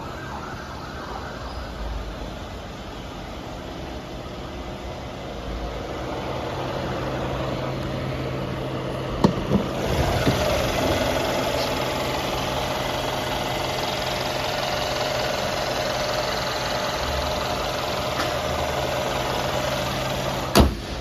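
Mercedes-Benz S550's twin-turbocharged V8 idling steadily. About nine seconds in there are two sharp clicks, after which the sound grows fuller, and a single sharp knock comes near the end.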